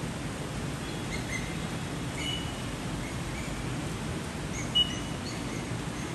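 Steady, heavy rain falling on trees and rooftops, with birds giving short high chirps now and then; one sharp call nearly five seconds in stands out as the loudest sound.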